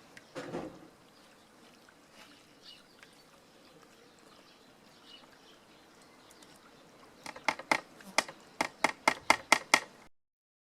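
Hammer driving a small nail into wood: a quick run of about a dozen sharp taps over under three seconds, starting about seven seconds in.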